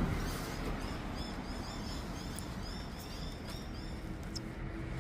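A bird chirping: a quick run of short, high, arching chirps, about four a second, that stops shortly before the end, over a steady low rumble.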